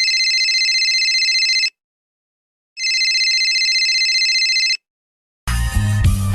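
Telephone ringing: two rings of about two seconds each, a second apart, each a high, fast-warbling electronic trill. Music starts near the end.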